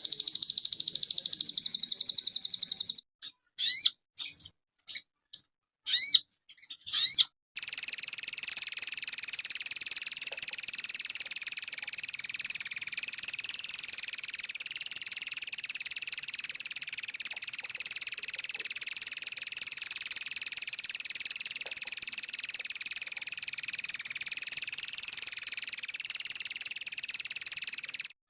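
Sogon bird song, high-pitched throughout: a rapid buzzy trill at the start, then a few separate sharp swooping notes, then from about eight seconds in an unbroken dense high twittering chatter at a steady level.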